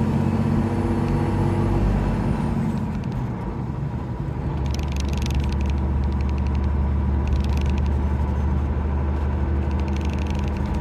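A 2012 Freightliner Cascadia semi truck's diesel engine running steadily while pulling a loaded trailer of about 42,000 pounds. The engine note eases off about two to three seconds in, then builds again and holds steady.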